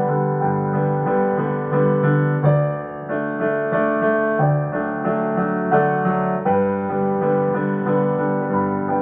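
Piano playing a melody over sustained chords, with no singing.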